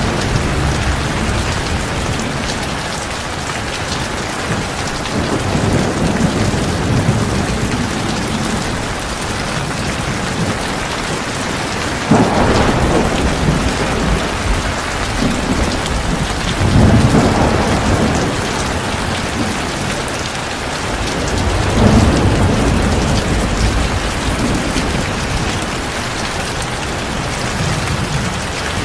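Heavy rain pouring steadily, with rolls of thunder. The loudest thunder is a sudden crack about twelve seconds in that rumbles on, and further rumbles swell up a few seconds later.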